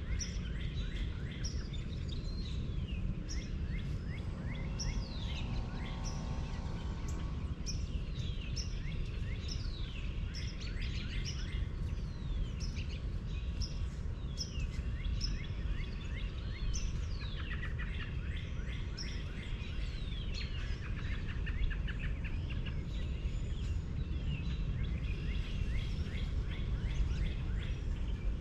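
Many birds chirping and singing at once, with quick falling chirps overlapping throughout, over a steady low rumble. A faint hum comes and goes around five seconds in.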